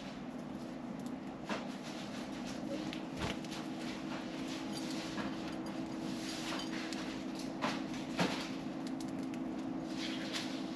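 Pet budgerigars chirping and pecking at millet, with scattered sharp clicks over a steady low hum.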